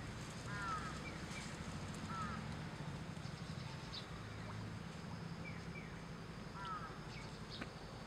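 Short chirping bird calls, each a quick cluster of curved notes, heard four times, over a low steady hum.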